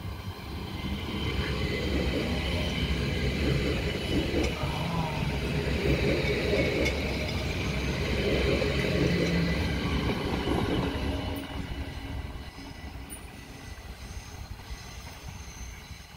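Electric multiple-unit passenger train passing close by, its wheels and running gear rumbling under a high whine. It builds quickly at the start, is loudest in the middle, and fades as the train draws away near the end.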